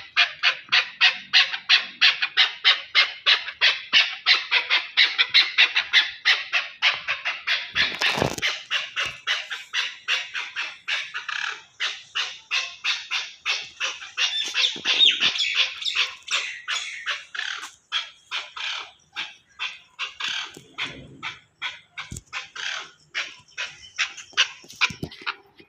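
Chukar partridge calling: a long run of short, rapidly repeated clucking notes, several a second, spacing out and slowing toward the end. A single low thump about eight seconds in.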